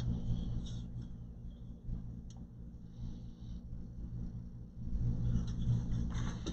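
Steady low hum, with faint rustling and a single click about two seconds in.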